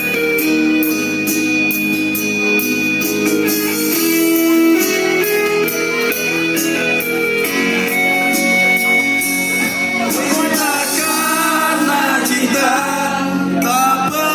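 Live band music: an instrumental passage of guitar and held keyboard-like notes. A singing voice comes in about ten seconds in.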